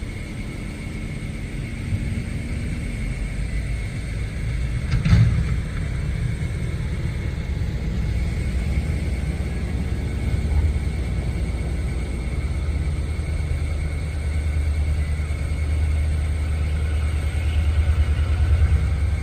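Diesel switcher locomotive engine running with a low rumble that grows louder near the end, over a steady high-pitched hum; a single knock about five seconds in.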